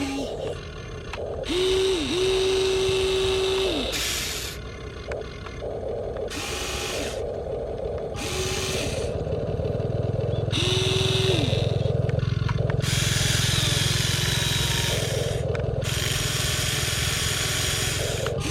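Huina 1593 RC excavator's small electric motors and gearboxes whirring in repeated stop-start bursts of a few seconds each as its boom, arm and bucket move, over a steady low hum.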